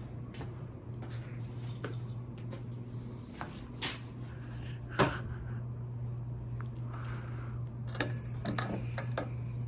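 A few short knocks and clicks, the loudest about five seconds in and a quick cluster near the end, over a steady low hum.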